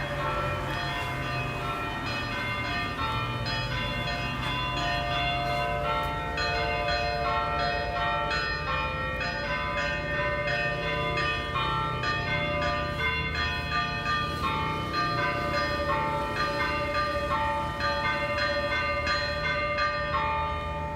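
Bells of nearby Greek churches ringing in a continuous peal of many struck notes overlapping one another. A low steady hum lies underneath.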